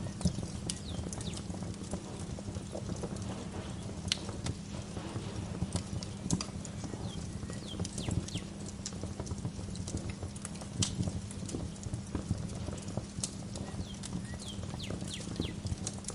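Wood fire crackling in a fireplace: irregular sharp pops and snaps over a steady low rumble. Birds chirp in the background with short, quick, falling calls.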